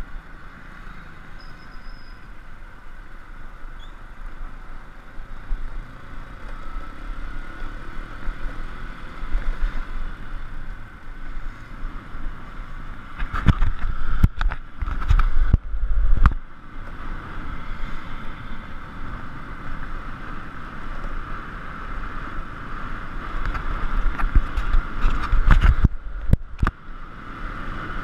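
Motorbike on the move, its engine running steadily with wind rumbling on the microphone, rising to loud gusts of wind buffeting about halfway through and again near the end.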